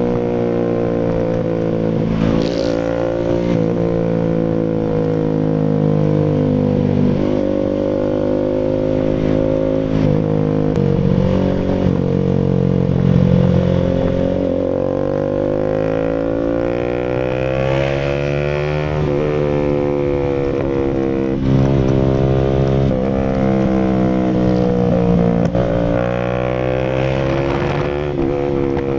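Bajaj Rouser RS200's single-cylinder engine running through an SC Project full exhaust, its pitch rising and falling several times with the throttle.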